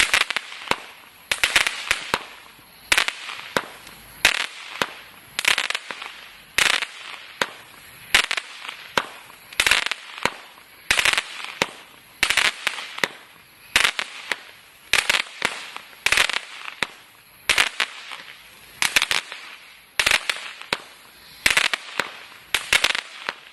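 Total FX 'Crackling Wood' firework going off shot after shot, roughly one every second and a half. Each shot is a sharp bang followed by a short burst of dense crackling.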